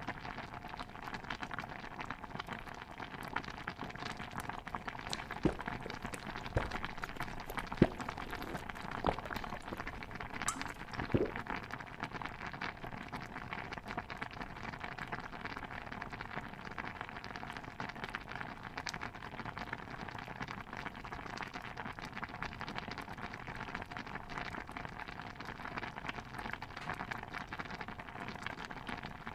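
A steady bed of fine crackling and bubbling from a simmering pot of stew. A few sharp knocks come between about five and eleven seconds in, the loudest near eight seconds.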